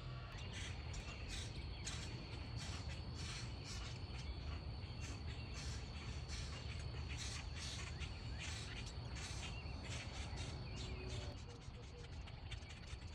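Backyard birds calling: a rapid run of short, harsh, scratchy calls repeated over and over, with a faint steady high tone behind them.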